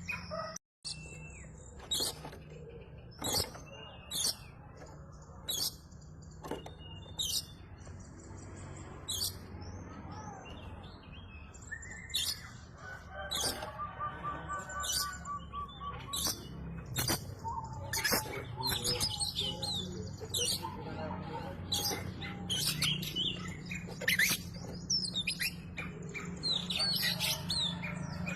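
Oriental magpie-robin (kacer) in full song: a run of short, sharp, high chirps and whistled phrases, over a steady low hum.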